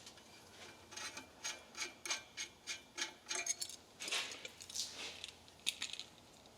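Small metal clicks and scrapes, irregular and quiet, as a compression ferrule is worked onto the end of a length of metal tubing, with a longer rubbing scrape about four seconds in.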